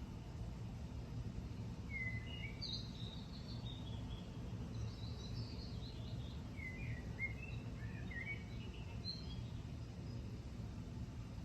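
Songbirds singing outdoors in short chirping phrases every second or so, over a steady low background rumble.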